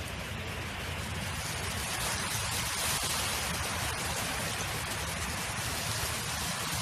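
Wind blowing steadily: a broad hiss over a low rumble, the hiss swelling about a second in and holding.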